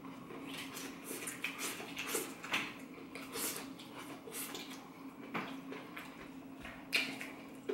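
Close-up chewing of crunchy deep-fried food with a Cheeto-crumb crust: irregular crisp crackles and mouth sounds, over a faint steady hum.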